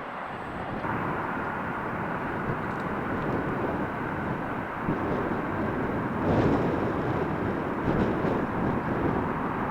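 Jet airliner engines running, a steady rushing roar with a faint high whine that comes in about a second in, with gusty wind buffeting the microphone.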